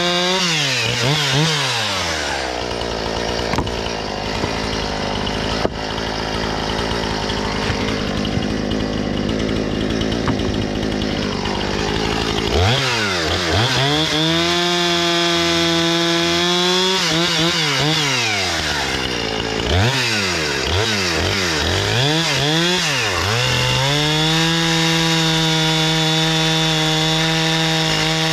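Husqvarna 460 Rancher two-stroke chainsaw cutting wood. It falls in pitch from high revs about a second in and runs loaded through a long cut for about ten seconds. It then revs back up, dips and climbs again several times, and holds at high revs near the end.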